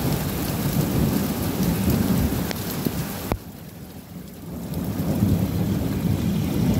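Heavy rain pouring down in a dense, steady hiss with a low rumble. A little past halfway the sound drops sharply for about a second, then builds back up.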